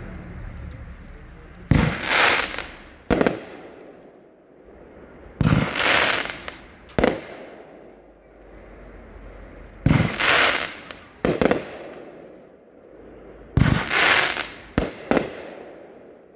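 Nova Drift 20-shot consumer firework cake firing: about every four seconds a shot goes off with a loud bang and a hissing crackle, then a second sharp report about a second later, four times over.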